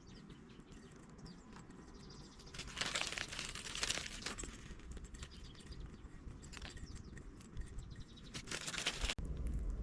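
Crinkling and rustling handling noises, louder in short bursts about three to four seconds in and again shortly before a sudden cut near the end.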